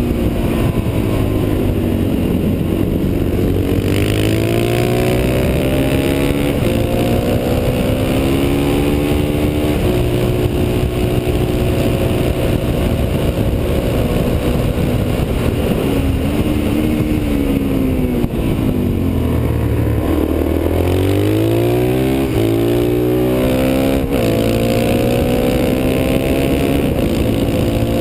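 Suzuki DR-Z supermoto's single-cylinder four-stroke engine under hard riding on a track, its pitch climbing and falling as it accelerates, shifts and slows for corners, with a deep drop and a steep climb again a little past the middle. Wind rush runs under the engine throughout.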